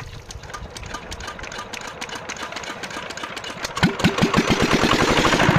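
Single-cylinder diesel engine of a shallow tube-well water pump being turned over by hand with a faint, even chuffing. About four seconds in it fires with a few loud strokes and starts running with a fast, steady beat.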